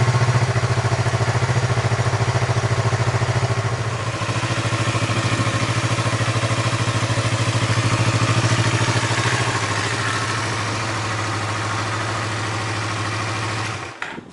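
Yamaha MT-25's parallel-twin engine idling steadily through an aftermarket Yoshimura muffler, then shut off near the end with a few clicks as it stops.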